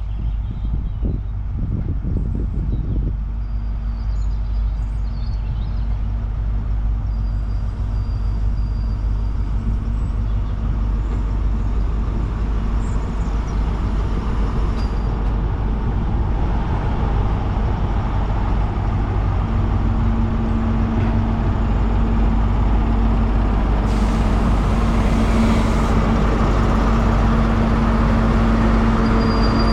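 High-Speed Train (InterCity 125) with its Class 43 diesel power car engines running as it arrives, a steady low rumble and hum growing gradually louder. A brief hiss comes about three-quarters of the way through.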